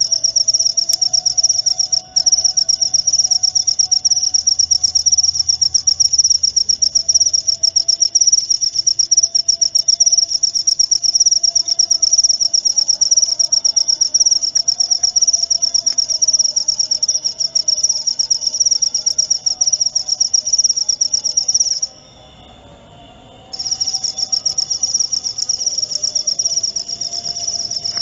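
Jaliteng cricket chirping in a rapid, continuous high-pitched trill. It stops for about a second and a half near the end, then resumes.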